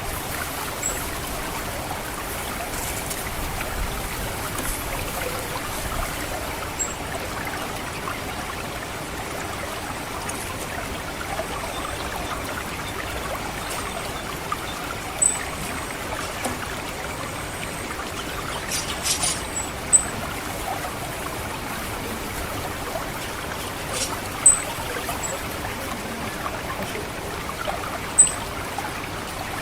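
Water trickling steadily through a rice paddy, with short, very high thin calls of an orange-headed thrush (ngecit calls) coming every few seconds over it.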